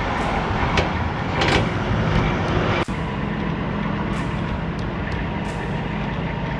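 Heavy truck engine running steadily under wind and road noise, with a few knocks early on, then a sudden break about three seconds in that leaves a steady low engine hum.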